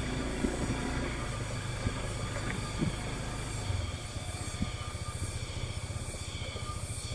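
Motorcycle engine running while riding, a steady low rumble whose note changes about four seconds in to an even, rapid pulsing.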